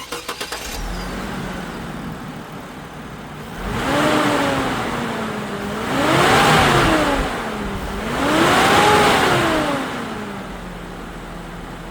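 2003 Chevrolet Trailblazer engine starting after a brief crank, settling to a steady idle, then revved up and let fall back three times, the second and third revs higher than the first, before returning to idle.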